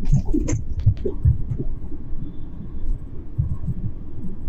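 Car interior road noise while driving: a low rumble with irregular low thumps, and a few sharp clicks in the first second.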